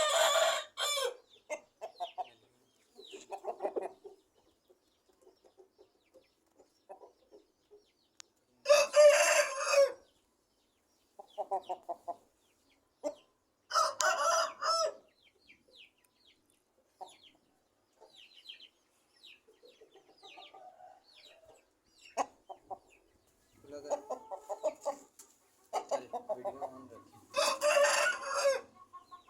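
Aseel roosters crowing, with several loud crows each lasting about a second and quieter clucking calls between them.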